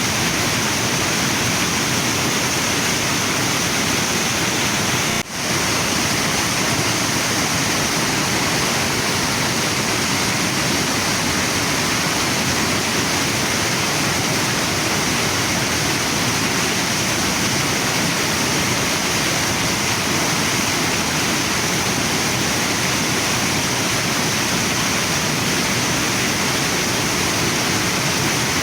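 Steady rushing of a waterfall and river, with a brief dip in loudness about five seconds in.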